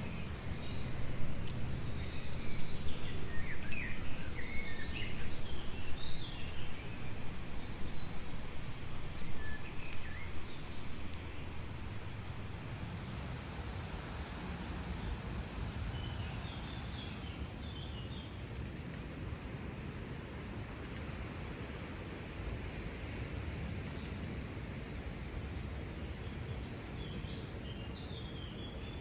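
Calm water flowing in a steady rush, with small birds chirping over it. After the first several seconds a thin high note repeats about twice a second.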